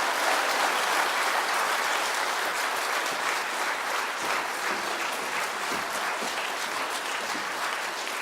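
Concert audience applauding: dense, steady clapping that eases off gradually toward the end.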